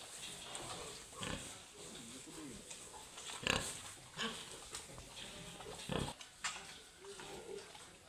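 Pigs grunting: a string of short, irregular grunts, the loudest about three and a half and six seconds in, with a few higher, pitched squeaks between them.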